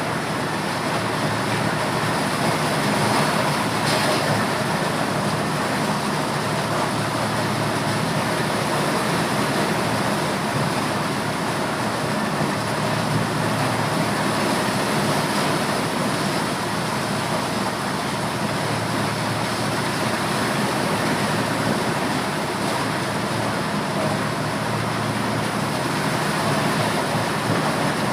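Motorised corn sheller running steadily under load, a continuous loud mechanical din of engine and threshing drum.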